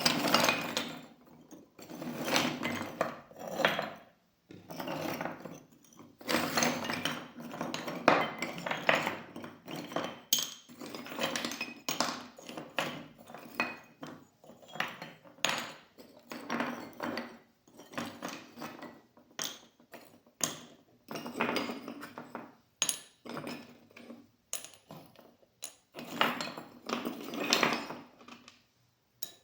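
Irregular clinking, tapping and rubbing of small hard objects being handled, in uneven bursts with short gaps.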